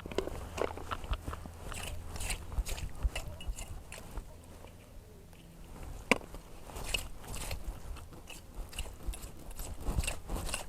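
Digging for venus clams in wet sand: irregular scraping and crunching, with sharp clicks of shell against the tool, the sharpest about six seconds in.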